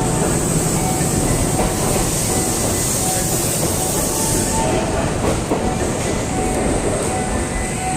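Kintetsu train running at a station platform: a steady, loud rail noise, with a short tone repeating over it.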